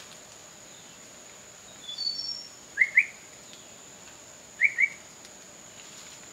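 A bird calls twice with quick pairs of short rising chirps, with fainter higher chirps just before, over a steady high insect whine.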